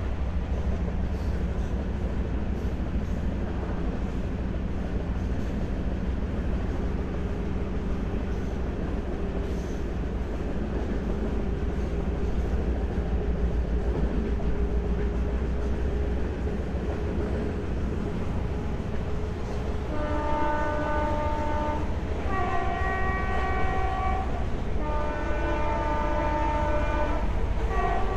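Passenger train running at speed, the coach's wheels rumbling steadily on the rails, heard from the open doorway. About two-thirds of the way in, the locomotive's horn sounds three times, each blast a chord of several tones lasting about two seconds.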